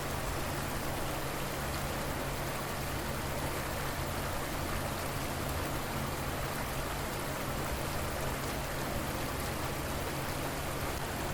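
Flowing river water, a steady, even rushing hiss with no breaks.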